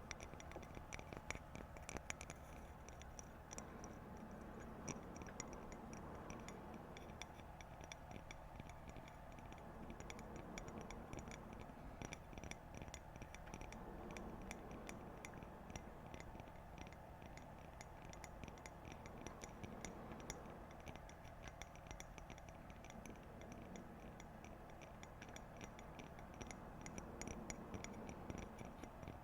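Light, quick tapping on objects: many small irregular clicks in runs, densest in the first few seconds.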